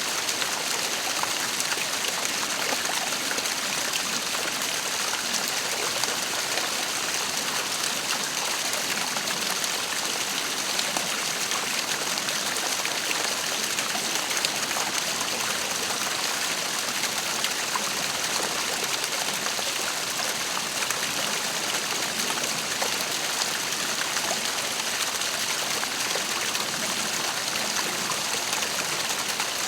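Waterfall: water falling and splashing in a steady rushing hiss that does not change.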